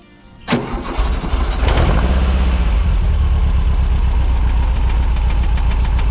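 1973 Volkswagen Type 2's air-cooled flat-four engine with twin carburettors starting about half a second in, catching within a second, briefly rising in pitch, then settling into a steady idle.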